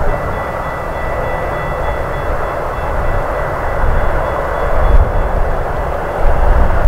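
Metra commuter train passing the crossing: a steady loud roar and low rumble, with a faint high whine for the first few seconds and heavier rumbling surges near the end.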